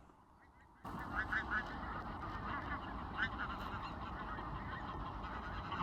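A large flock of pink-footed geese calling, with many overlapping honks that start suddenly about a second in and keep up as a steady chatter.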